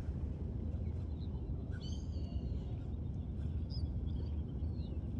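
Steady low outdoor rumble with a few faint bird chirps and whistles, a short run of them about two seconds in and single calls near four seconds.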